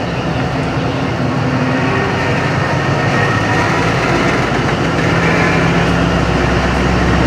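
Train running by, a loud rumble that grows steadily louder, with a low steady hum getting stronger near the end.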